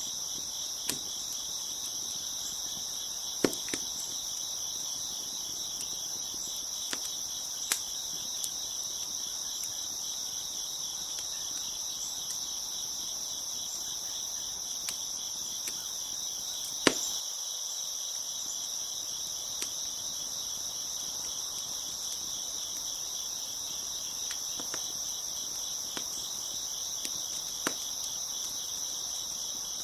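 A steady, dense chorus of crickets chirping, with a few scattered sharp crackles and pops from a wood fire; the loudest pop comes about halfway through.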